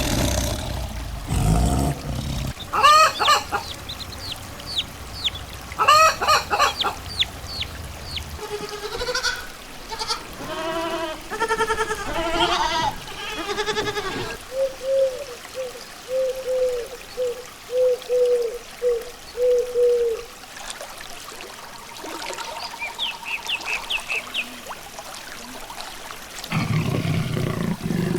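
A series of different animal calls, one clip after another, including a run of about ten short, evenly spaced calls in the middle.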